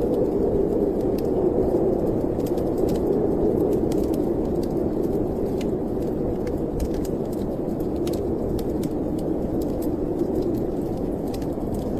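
Wind of a snowstorm blowing steadily, with a wood fire crackling over it in scattered sharp pops.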